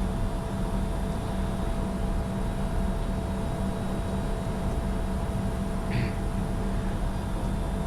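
Steady in-flight cockpit noise of a Bombardier Challenger 605: an even rush of airflow and engine noise with a constant low hum and a few steady tones. A brief faint high sound comes about six seconds in.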